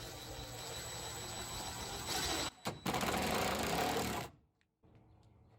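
Power drill driving a 1 5/8-inch screw into a pre-drilled wooden board, the motor running steadily, pausing briefly, then driving again harder before stopping about four seconds in.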